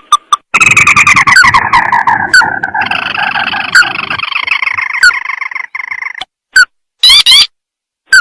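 Recorded lure call of a paddy-field crake (tikusan sawah): a long run of rapid call notes sliding down in pitch over a few seconds, then a steady chattering run, then a few short separate calls near the end.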